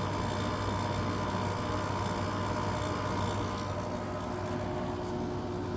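1999 Whirlpool 5000 BTU window air conditioner running on cool, its LG rotary compressor and fan making a steady hum with a whine over it; the compressor is making noise and sounds not too happy. A further steady tone joins the hum a little under four seconds in.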